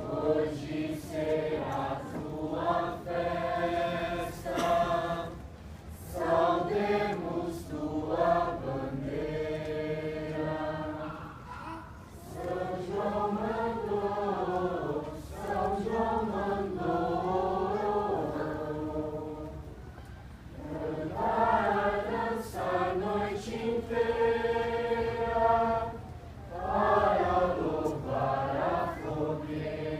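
A choir of many voices singing together, in long phrases with short pauses between them.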